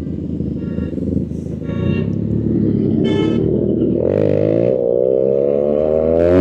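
Motorcycle engine running, then revving up with a steadily rising pitch from about four seconds in and dropping back at the very end. Three short high tones sound earlier, about a second apart.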